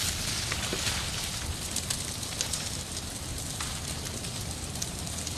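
Fire burning: a steady rushing noise with scattered sharp crackles and pops.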